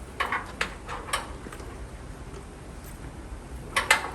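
A few short, sharp clicks in the first second, then a louder double knock near the end.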